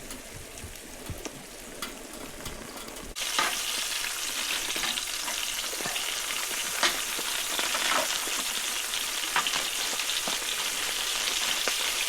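Smoked sausage frying in a pan: a steady sizzle with scattered crackles and pops. About three seconds in the sizzle jumps abruptly louder.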